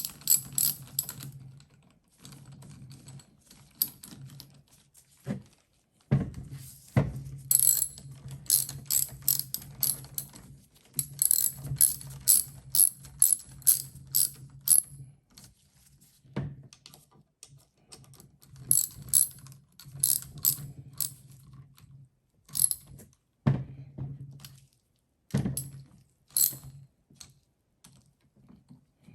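Hand ratchet wrench clicking in quick runs of strokes with short pauses, turning bolts on a starter motor assembly.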